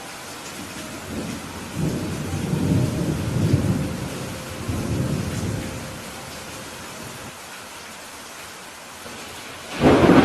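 Steady rain with thunder: a low rolling rumble builds about a second in and dies away over several seconds, and a louder, sharper thunderclap breaks out near the end.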